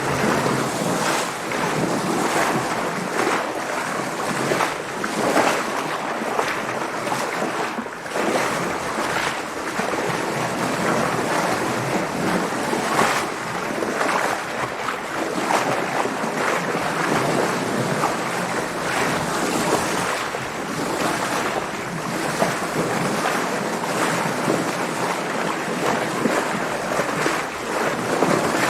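Water splashing and sloshing against a sailboat in waves: a continuous rushing wash with frequent short splashes, and wind blowing over it.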